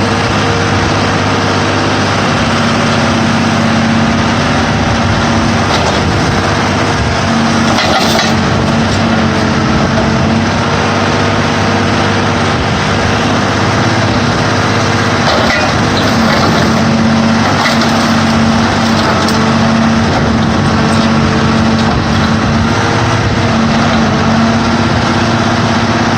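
Sierra 4200 scrap car baler's engine and hydraulic drive running loud and steady, with a few faint sharp clicks about eight seconds in and again around fifteen to nineteen seconds.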